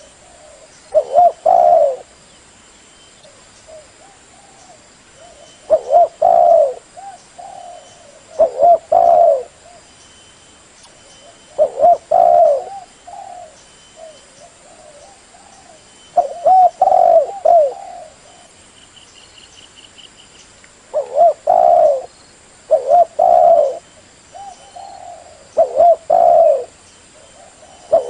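Spotted dove (tekukur) cooing in repeated phrases. Each phrase is a short cluster of low, rolling coos, and the phrases come every few seconds with quiet gaps between. This is the call used as a lure to draw in wild doves.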